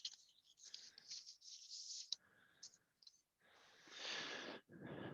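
Faint rustling and shuffling of paper as the pages of a bid document are handled and turned, in a few short spells.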